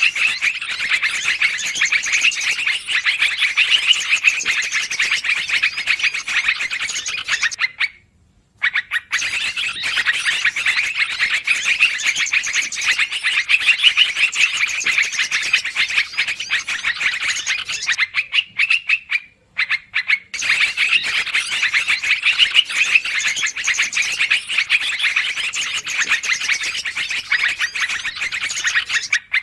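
Yellow-vented bulbuls (trucukan) chattering noisily: a dense, continuous run of fast, high chirps that breaks off briefly twice, about a third and two-thirds of the way through.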